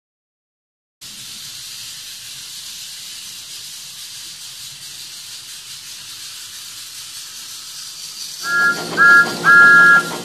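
Steam locomotive sound: a steady hiss of steam, then near the end a two-note steam whistle sounds three times, two short toots and a longer one.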